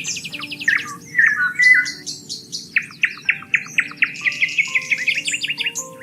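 Several songbirds singing, overlapping: a fast trill at the start, a few whistled calls in the first two seconds, then a long run of rapid chirps from about halfway. Soft held music notes sound underneath.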